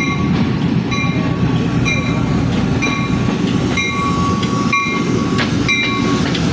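Train running with a steady low rumble, while a bell-like tone rings about once a second.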